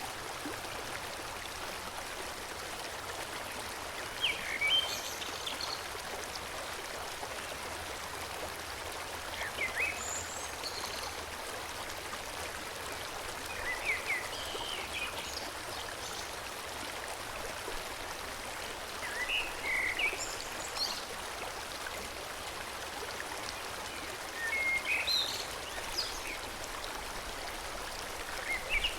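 Forest stream flowing with a steady rush of water. A bird sings short, high phrases about every five seconds over it.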